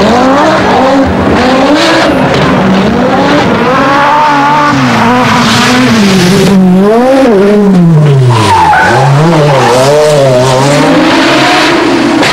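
Group B rally car engine at racing speed, its pitch climbing and dropping again and again as the driver accelerates, shifts and lifts off the throttle.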